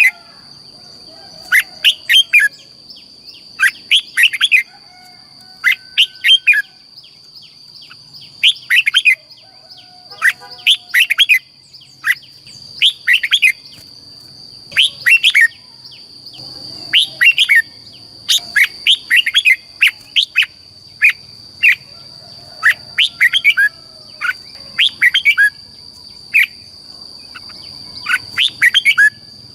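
Red-whiskered bulbul singing short, loud phrases of quick whistled notes, repeated every second or two. A steady high-pitched tone runs underneath.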